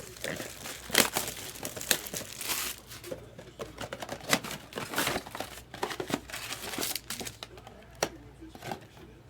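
Plastic wrapping crinkling and tearing in irregular bursts as a sealed trading card box is opened by hand.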